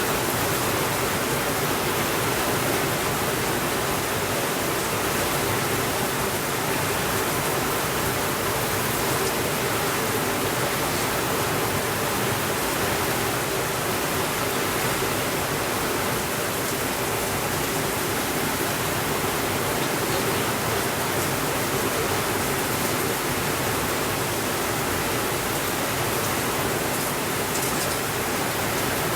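Heavy rain falling steadily on a window, an even rushing hiss with no thunder.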